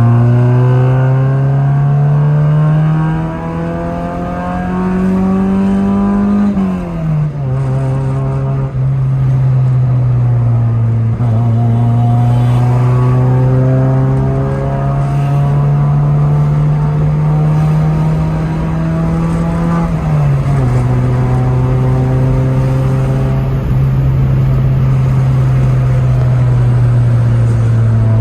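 Honda Civic's engine and exhaust under acceleration. The engine note climbs steadily in pitch and drops suddenly at two upshifts, about seven seconds in and about twenty seconds in.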